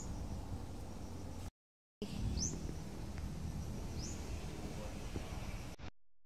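Outdoor ambience: a steady low rumbling noise with short rising bird chirps, one at the start, one about two and a half seconds in and one about four seconds in. The sound drops out briefly about a second and a half in and cuts off near the end.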